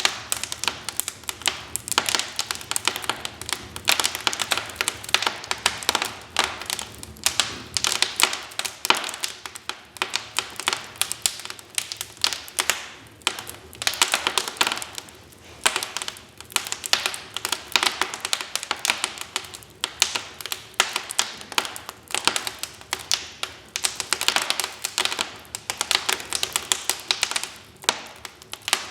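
Wood fire crackling: dense, irregular snaps and pops of burning logs over a soft hiss.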